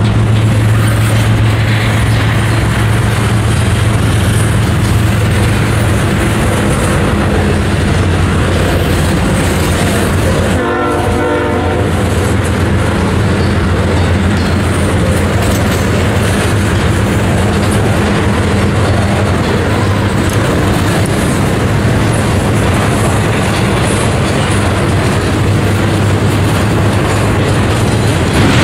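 Double-stack intermodal freight train's cars rolling past: a steady, loud rumble of wheels on the rails with clickety-clack.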